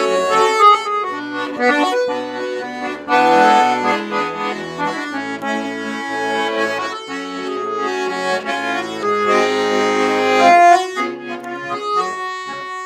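Accordion playing an instrumental passage of a song: a melody in held, chord-like notes over stepping bass notes, with no singing.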